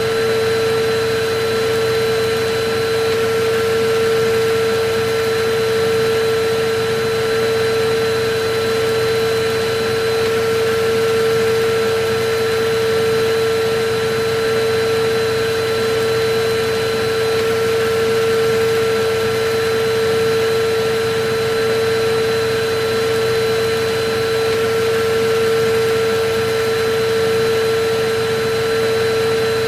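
Electric vacuum cleaner running steadily: a constant rushing hiss with a steady motor whine, the level swelling slightly about every two seconds.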